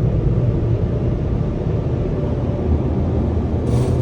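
Automatic car wash heard from inside the car's cabin: a steady low rumble, with a short hiss near the end.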